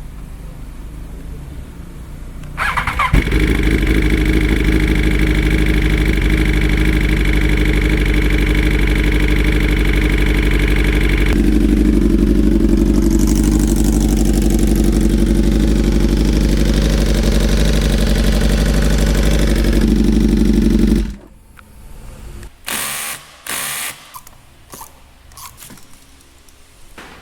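BMW S1000RR motorcycle's inline-four engine starting about two and a half seconds in and running steadily, its note shifting once partway through, then cutting off abruptly. A few short sounds follow after it stops.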